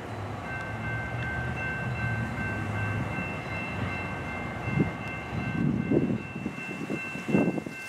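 Loram rail grinder train led by an F40PH diesel locomotive approaching slowly with a low steady engine rumble. From about half a second in, a grade-crossing warning bell rings with a steady high tone. Near the end there are a few louder rushing bursts.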